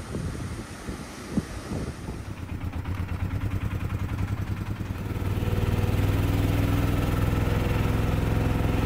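An engine running steadily, becoming louder and more even about halfway through.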